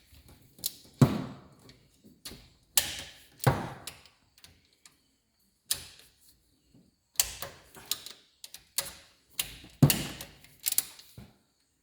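Irregular clanks and knocks of hand tools on an engine while the last cylinder head bolts are being worked loose, about a dozen sharp strikes with a short lull near the middle.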